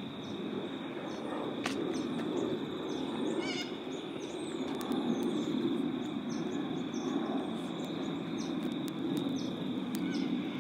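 Steady low outdoor noise with bird calls over it, one clear call about three and a half seconds in.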